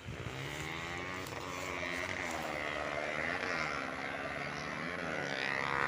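Sendaren kite hummer on a flying gapangan kite, droning: a steady buzzing hum whose pitch wavers slowly up and down, growing gradually louder.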